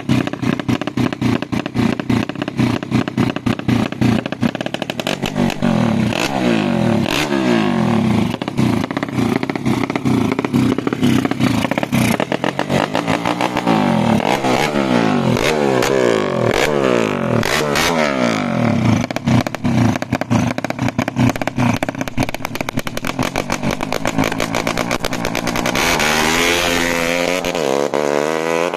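Tuned Yamaha Jupiter 130 cc single-cylinder four-stroke motorcycle engine being revved over and over, its pitch rising and falling, with a rapid crackling rattle throughout. Near the end it revs up in one longer climb.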